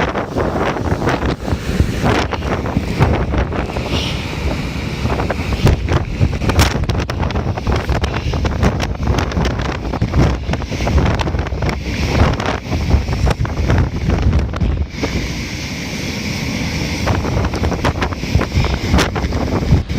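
Strong gusting wind buffeting the microphone in constant low rumbling blasts, over a rushing noise of wind-blown waterfall spray.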